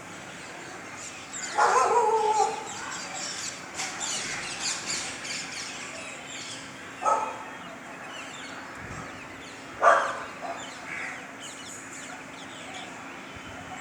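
Small birds chirping, with three loud calls over them: a longer one about two seconds in and short ones around seven and ten seconds in.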